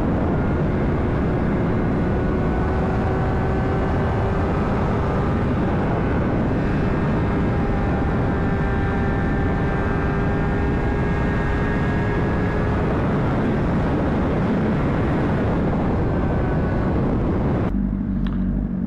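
Honda CBR600RR inline-four running at a steady cruise, its pitch climbing slowly, under heavy wind rush on the helmet microphone. The wind noise drops away abruptly near the end.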